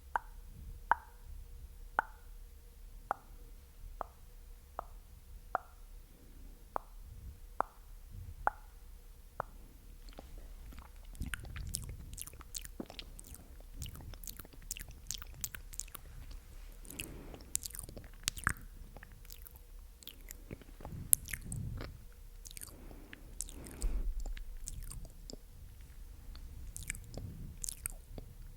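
Close-miked ASMR mouth sounds: a regular series of short, soft pops, about two a second, for the first ten seconds or so, then wet, sticky clicking and smacking of the lips and tongue.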